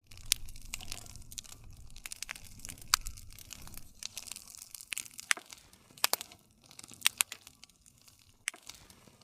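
Wood fire crackling: a steady run of small snaps and pops from burning wood, with a few louder pops scattered through. A low rumble under it fades about four seconds in.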